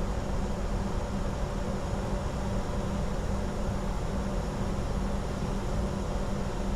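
Steady cockpit noise of a Bombardier Challenger 605 business jet in flight: an even rush of air with a steady low hum.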